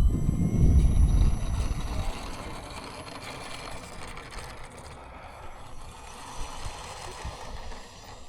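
E-flite Pulse RC model airplane's motor running with a thin high whine as the plane takes off. A loud rumble for the first two seconds drops away, and the motor sound fades as the plane moves away.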